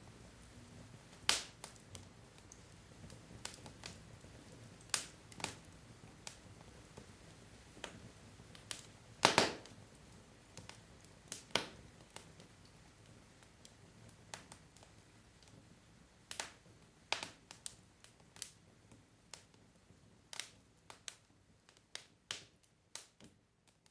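Burning wood logs in a fireplace, crackling: irregular sharp pops and snaps over a faint low hiss, with the loudest double pop about nine seconds in.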